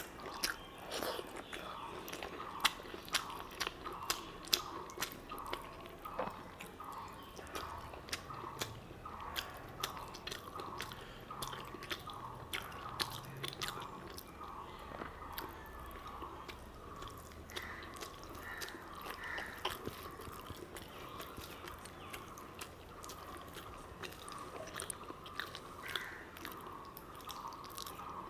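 Close-miked chewing and biting of rice and curry, with many sharp crunches and wet mouth clicks in a steady chewing rhythm.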